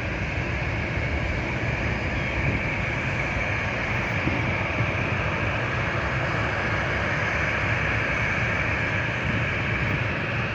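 Boeing 737 MAX 8's CFM LEAP-1B turbofan engines running, a steady rushing noise with a high whine on top.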